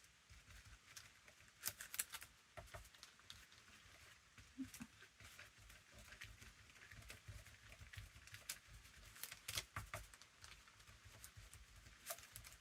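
Faint, scattered taps and soft scraping of a brush applying Mod Podge to a journal cover, with a few sharper clicks around two seconds in and again near ten seconds.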